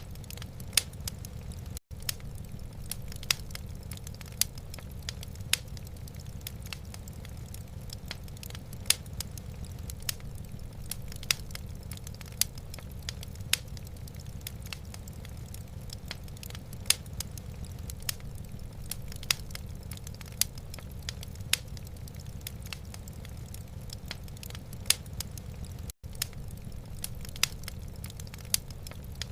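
Wood fire burning in a fireplace: irregular sharp crackles and pops over a steady low rumble. The sound cuts out for an instant twice.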